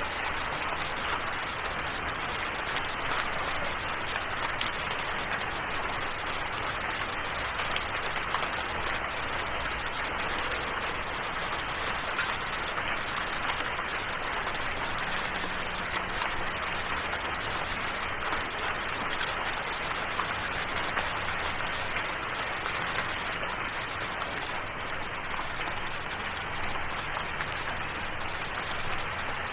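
Steady rain, an even hiss of many small drops, with no change in strength throughout.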